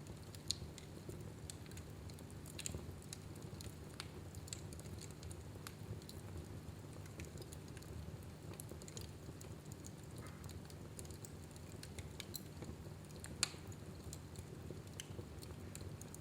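Fire burning in a fireplace: a low steady rumble with scattered crackles and snaps, and two sharper pops, one about half a second in and one near the end.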